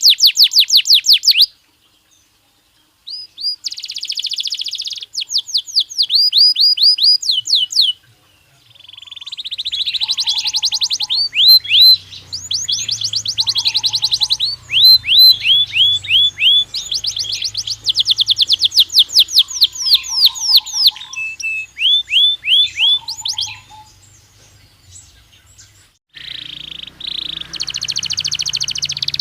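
Belgian canary singing in fast trills of rapidly repeated, downward-sweeping notes, phrase after phrase with short breaks, falling silent for about a second and a half near the start and again for a couple of seconds near the end.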